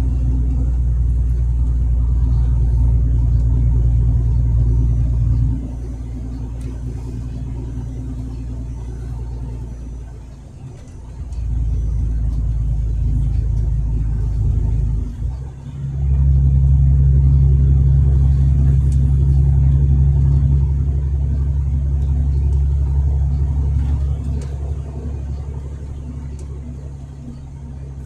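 Truck diesel engine running under way with a low, steady drone. It falls off and picks back up a few times, with two brief sharp dips along the way.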